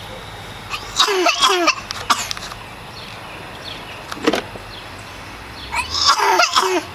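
A small child's wordless, high-pitched babbling and squeals in three short bursts: about a second in, briefly around four seconds, and again near the end.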